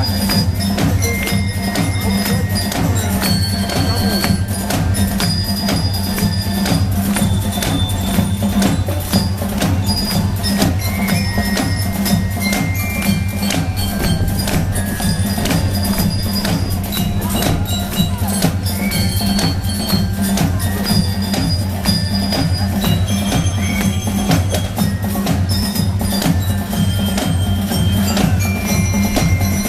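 Marching showband playing in the street: a steady stream of drum and wood-block strokes under short, ringing glockenspiel-like bell notes, over a steady low bass.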